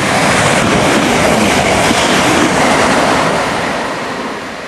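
Class 365 electric multiple unit passing through the station: a rushing rumble of wheels on rails that swells to a peak as the train goes by and then fades as it moves away.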